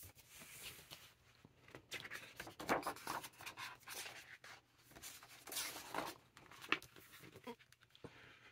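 Paper rustling with soft taps and clicks: the pages of a picture book being handled and turned.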